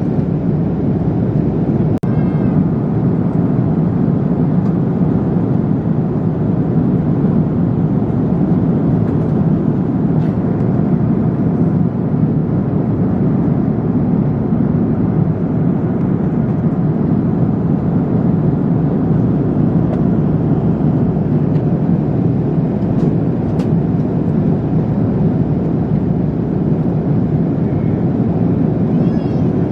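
Steady drone of an airliner cabin in flight: jet engine and airflow noise heard from inside the cabin, even and unchanging, with a few faint clicks.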